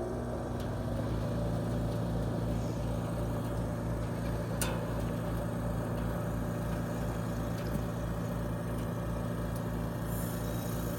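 Trane XR14 3.5-ton heat pump outdoor unit running through a defrost cycle: a steady compressor hum with a low pulsing beat about three times a second, and one faint click about halfway through.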